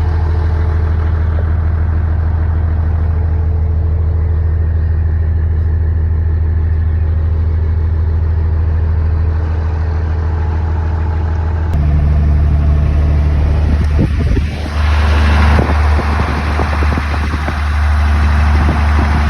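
Old truck's engine and road noise while driving, a steady low hum. About twelve seconds in it changes abruptly to a louder run with more rushing wind and road noise.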